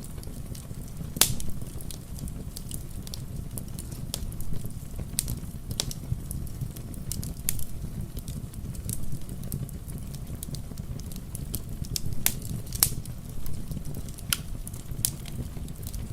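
Wood fire crackling with irregular sharp pops, the loudest about a second in and twice around twelve seconds, over a steady low rumble of rain.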